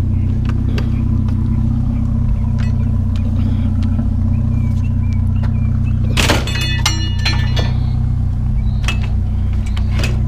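Truck engine idling steadily, with scattered light knocks and one loud metallic clang about six seconds in that rings briefly, as scrap is handled.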